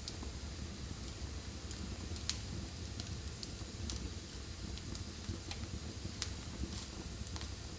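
Wood fire burning in a fireplace: a steady low rumble and hiss with scattered sharp crackles and pops, the loudest pop about two seconds in.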